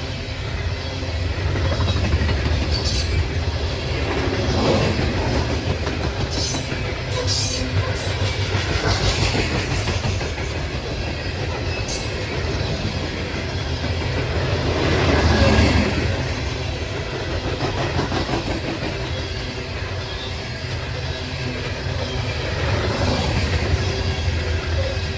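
Loaded coal train's hopper cars rolling past at about 38 mph: a steady rumble of steel wheels on rail with clickety-clack. A few brief, sharp high squeals or clinks from the wheels come in the first half, and the sound swells louder just past the middle.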